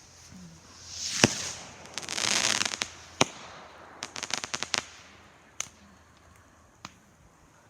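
Fireworks rockets going off: a rising hiss ends in a sharp bang about a second in, followed by a loud hissing crackle and another bang. A rapid string of crackles comes around four seconds in, then two fainter bangs near the end.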